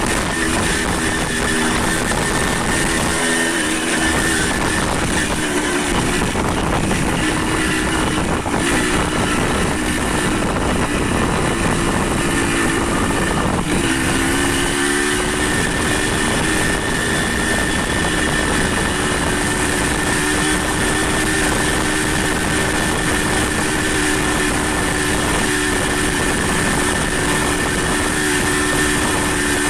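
Motorcycle engine running steadily while riding, over wind and road noise; the engine note shifts in pitch about halfway through.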